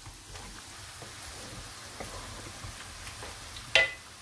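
Minced meat sizzling as it is sautéed in oil in an aluminium pot, a wooden spoon scraping and stirring through it with faint ticks. Near the end there is a single sharp metallic clink.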